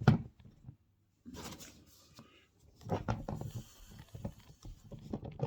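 An envelope being handled and opened: a sharp knock at the start, then bouts of paper rustling and crinkling.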